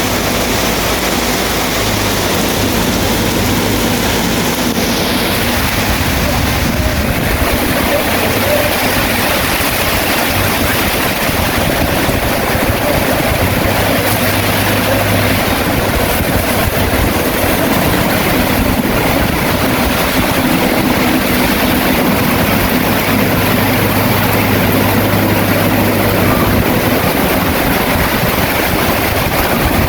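Bulldozer's diesel engine running, its low hum coming and going, under a loud, even hiss of rain.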